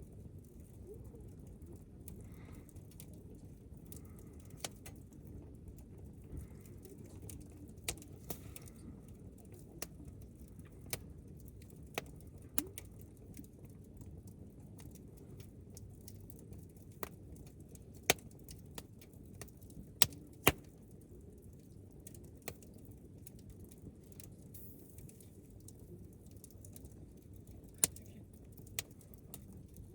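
Wood campfire crackling, with irregular sharp pops and snaps over a low steady rumble; a few much louder pops come in the second half.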